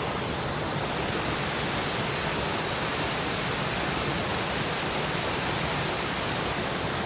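Small waterfall, about ten feet from top to bottom, pouring over rocks into a creek: a steady, unbroken rush of falling water.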